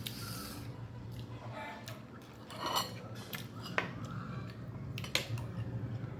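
Cutlery clicking and scraping against a plate during a meal, a few sharp clicks spread through, over a steady low hum.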